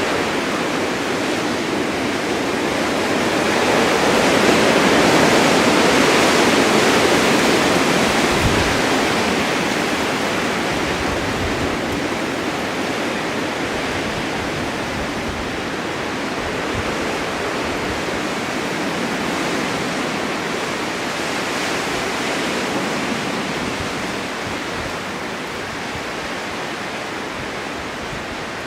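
Blizzard wind driving blowing snow on a winter mountain: a steady rushing that builds into a strong gust about five seconds in, eases, swells again more gently a little past the middle, and dies down slightly near the end.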